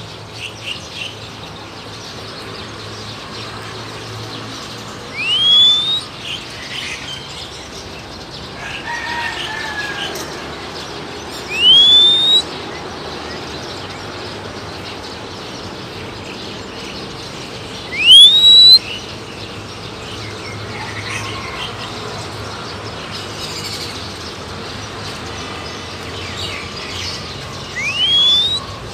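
A loud whistle gliding upward, repeated four times several seconds apart, used to call a wild oriental magpie-robin. Softer chirps from the bird come in between the whistles.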